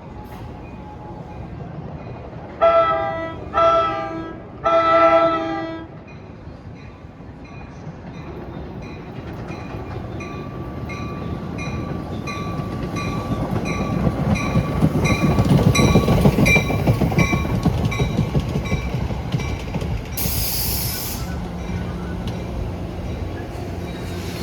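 Train horn sounding three blasts, the last one longest, then a train rolling in with a rising rumble and rhythmic clickety-clack of wheels over rail joints that grows loudest and then eases as it slows. A short burst of air hiss comes near the end.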